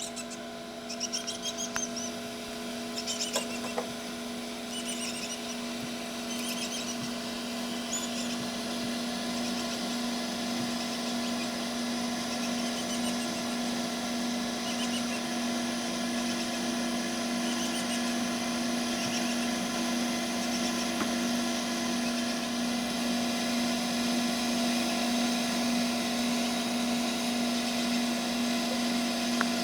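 Egg incubator's fan motor running with a steady hum.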